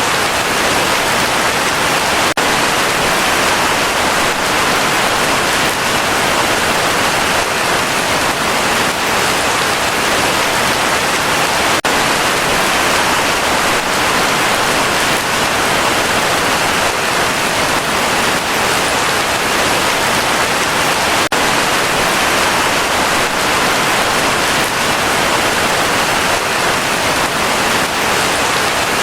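Heavy rain falling steadily: a loud, dense, even hiss of drops with no let-up.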